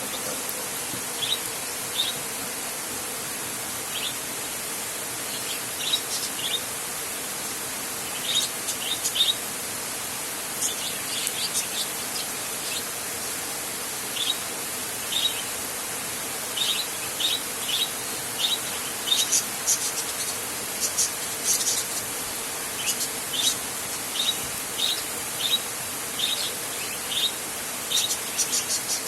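Steady hiss of rain, with short high chirps scattered through it, some in quick little clusters, growing busier in the second half.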